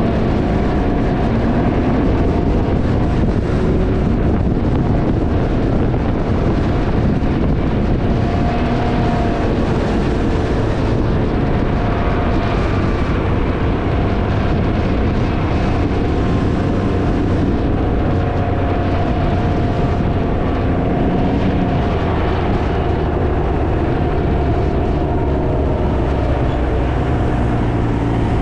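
Heavy wind buffeting on the microphone of a moving Can-Am Ryker three-wheeler, with the engine running underneath and its note drifting up and down a little.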